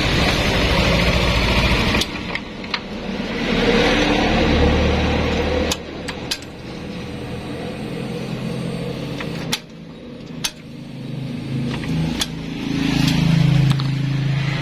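Yamaha Nmax scooter engine running, its speed rising and falling in stretches, with a few sharp clicks.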